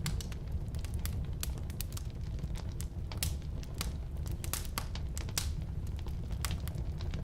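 Firewood burning in a fireplace or wood stove: irregular sharp crackles and pops over a steady low rumble of the fire.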